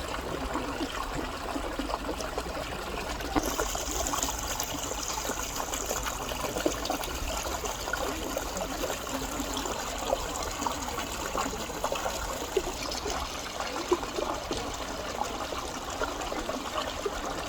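Stream water trickling and running steadily over a shallow bed. A high steady hiss sits over it from about three seconds in until about thirteen seconds.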